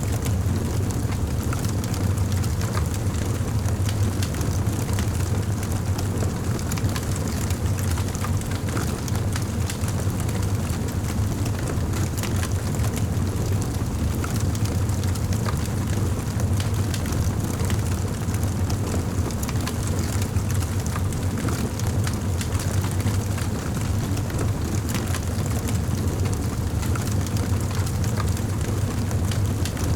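Wood fire in a fireplace crackling: many small, sharp pops scattered irregularly over a steady low rumble.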